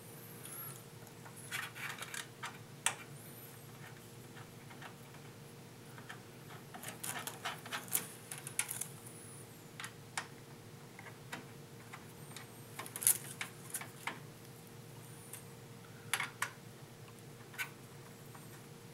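Irregular light clicks and rattles of small metal and plastic parts as thumb screws are fitted and turned down to hold a CPU liquid cooler's mounting in place, with a faint steady hum underneath.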